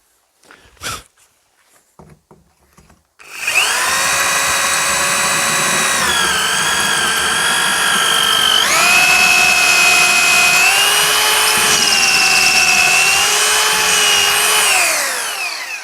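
Rotary hammer drilling a hole through a fireclay brick: after a few light knocks, the motor starts about three seconds in and runs with a steady whine for about twelve seconds. Its pitch drops once and then rises, and it slides down as it winds off near the end. The bit is straining and worn; the speaker suspects afterwards that this bit broke too.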